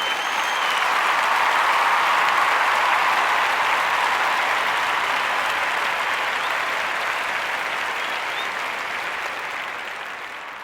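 Crowd applause that swells in at the start and slowly fades away toward the end, with a few faint whistles.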